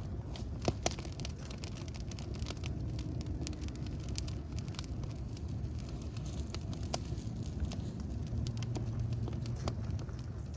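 Wood fire burning with a steady low rumble and frequent irregular crackles and pops, a couple of sharper pops about a second in.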